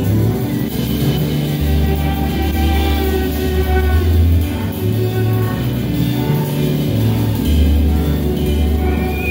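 A live band playing, with long, held deep bass notes under several sustained instrumental lines.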